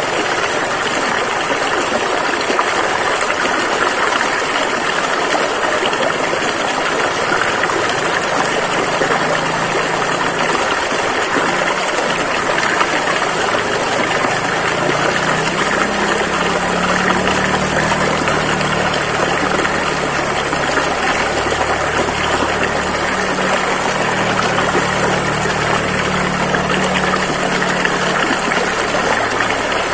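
Rushing river water flowing steadily. About halfway through, a low, steady motor hum joins underneath the water.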